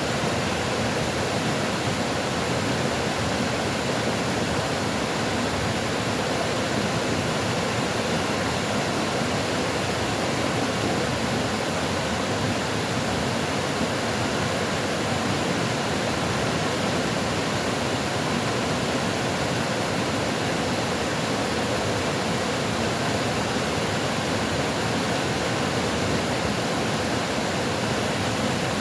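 Steady rushing water, a continuous even hiss with no distinct splashes or changes.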